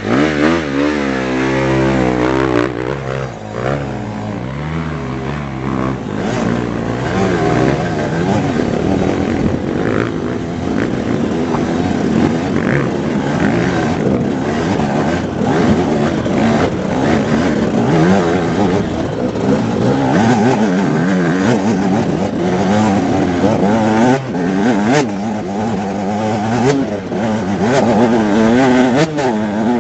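Off-road motorcycle engine revving as it is ridden, its pitch rising and falling with the throttle.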